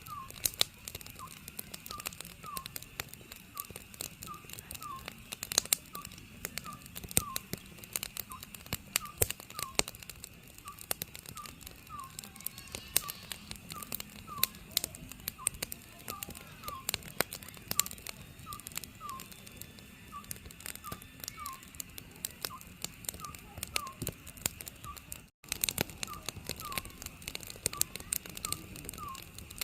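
Oriental scops owl calling, short paired notes repeated about once a second, over the crackling and popping of a wood fire.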